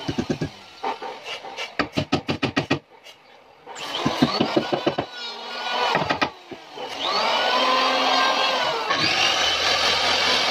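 Woodworking tools working wood: a run of quick, even strokes, about six a second, then a power tool spins up with a rising whine, winds down, and runs steadily again near the end.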